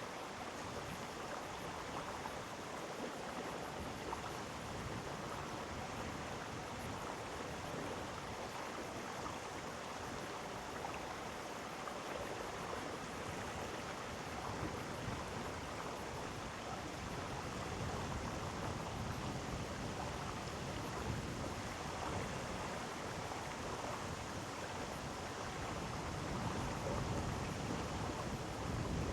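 Mountain stream rushing over rocks in a gorge, a steady, unbroken water sound. A deeper rumble grows in the second half.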